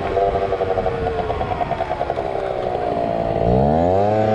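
Small two-stroke scooter engine of a Yamaha ZR Evo revving high with a fluttering note. It eases off, then revs sharply back up about three seconds in.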